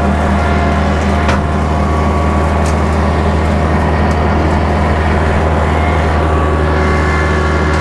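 Kubota tractor's diesel engine running steadily under load while its bush hog rotary cutter works through thick brush, with a couple of sharp cracks from snapping sticks.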